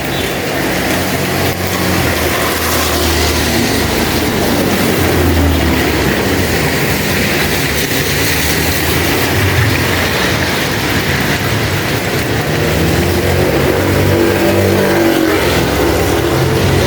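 Heavy rain falling steadily, with a motor vehicle's engine rumbling underneath it that grows a little louder in the second half.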